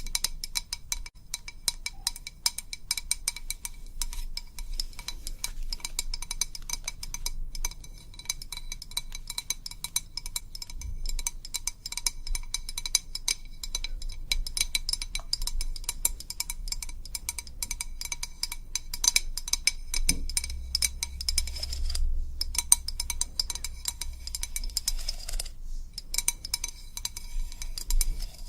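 Rapid, continuous ASMR tapping on a hard object that rings with a few clear tones, broken by two short pauses near the end.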